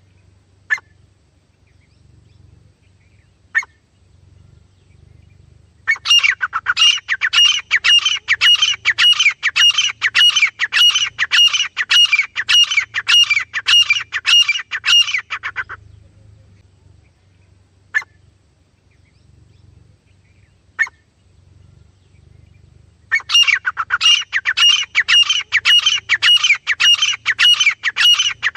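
Francolin (teetar) calling: a few single sharp calls, then long runs of loud, rapidly repeated ringing notes, about three a second, twice in a row for several seconds each.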